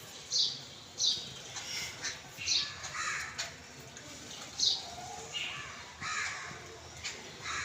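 A group of birds calling: short, sharp calls a second or so apart, some high and falling in pitch.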